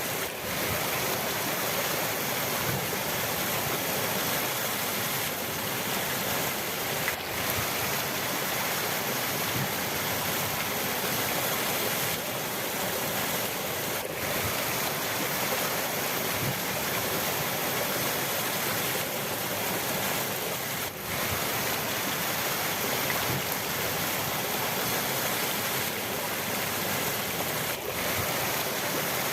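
Rushing river water: a steady, even rush with a few momentary dips.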